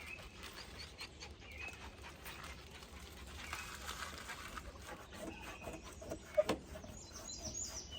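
Plasti Dip rubber coating being peeled off a truck's paint by hand, a faint, irregular crackling as the film pulls away, with one louder knock about six and a half seconds in. Faint bird chirps near the end.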